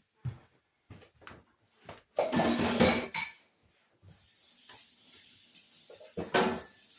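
Hard clinks and clatter of a tool being handled at a sink, loudest in a clattering stretch about two seconds in. From about four seconds a tap runs steadily while the tool is rinsed.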